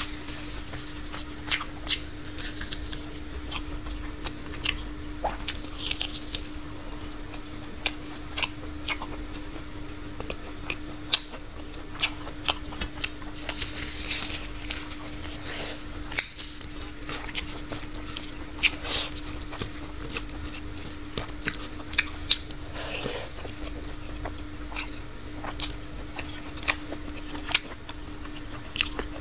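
A person chewing food by mouth, with frequent irregular wet mouth clicks and crunches, over a steady low hum.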